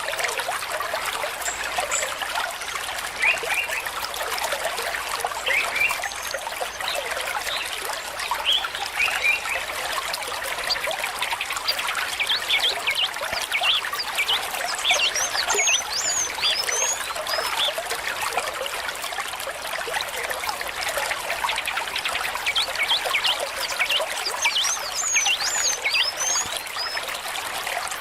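Small stream trickling and babbling over stones: a steady, even rush of water full of quick bubbling notes.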